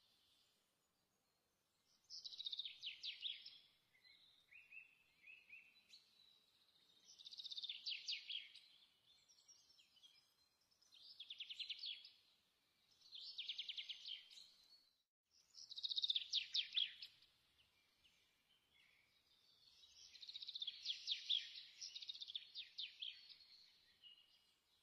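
A songbird singing faint, repeated phrases of fast trilled high notes, each phrase lasting one to three seconds with short pauses between them. The longest phrase comes near the end.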